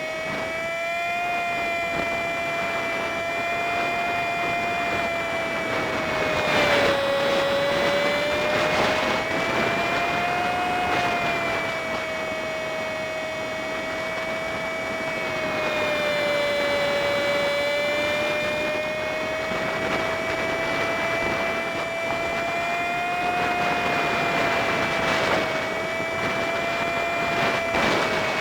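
Honda Super Cub 50's small single-cylinder engine under way, sped up to five times normal speed so that it sounds as a high-pitched whine, its pitch rising and falling slowly with the throttle, over wind and road noise.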